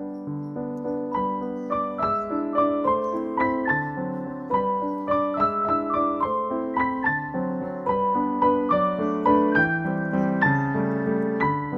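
Background piano music: a gentle melody of struck notes over a lower accompaniment.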